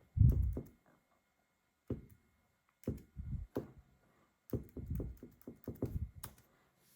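Irregular short taps and thumps with sharp clicks, in several clusters: hands handling a laptop or tapping on a hard surface. The loudest thump comes right at the start.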